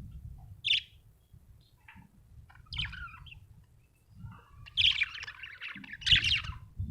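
Budgerigar chirping in short bursts, the loudest and busiest chatter about five and six seconds in, over a faint low rumble.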